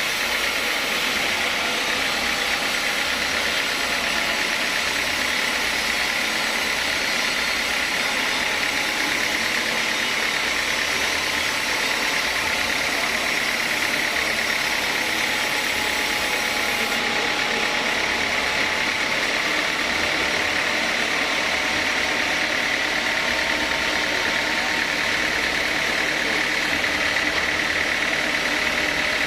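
Sawmill saw machinery running steadily: a continuous mechanical noise with a steady high whine.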